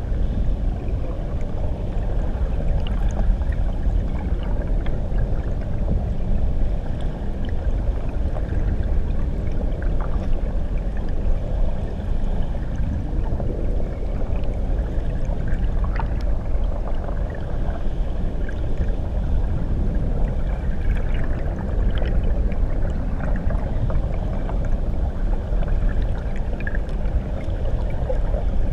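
Water of a waterfall heard from under the surface: a steady, muffled low rumble with faint, scattered ticks and pops of bubbles.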